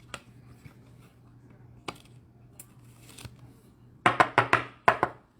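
Trading cards being handled: faint clicks and a rustle, then a quick run of five or six sharp taps about four seconds in, over a steady low hum.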